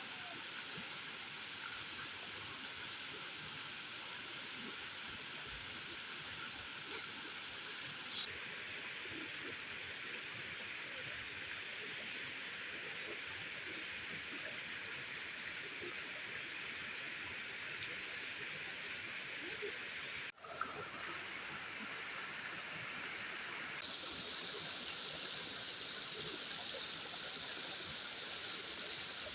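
Steady rushing water noise, like heavy rain or running water, with abrupt shifts in its tone about 8 s and 24 s in and a momentary dropout about 20 s in.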